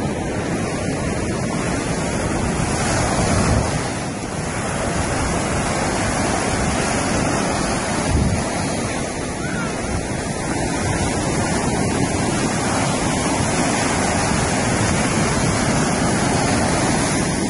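Ocean surf washing onto a beach, with wind buffeting the microphone; the wash swells louder about three seconds in and again about eight seconds in.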